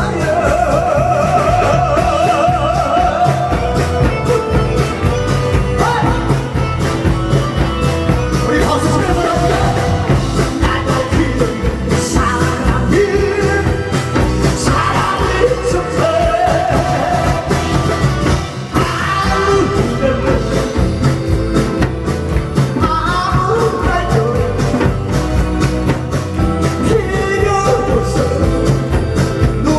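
A singer with heavy vibrato over a loud amplified backing track with a steady beat.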